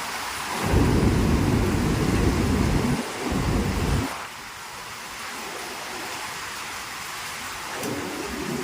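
Heavy typhoon rain pouring steadily, with a loud low rumble of thunder through the first few seconds that stops abruptly about four seconds in, leaving the rain alone.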